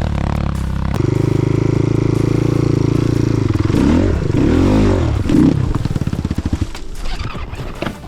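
Single-cylinder enduro motorcycle engine held at high revs, then revving up and down. Near the end it drops to a slow chug and fades away.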